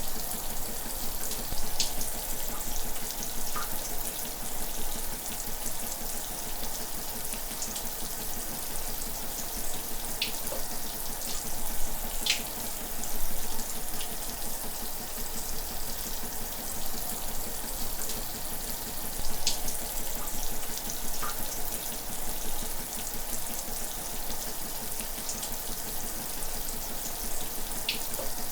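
Shower running: a steady hiss of falling water, with now and then a brief splash or drip ping.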